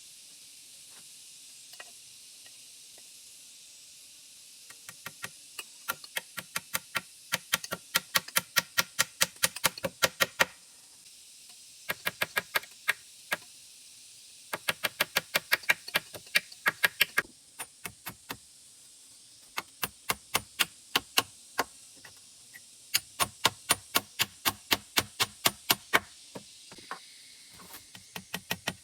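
Rapid chopping or knocking strikes, about four to five a second, in runs of a few seconds with short pauses between, over a steady high hiss.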